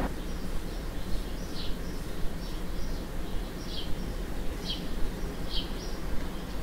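Small birds chirping, short high chirps about once a second, over a steady low hum.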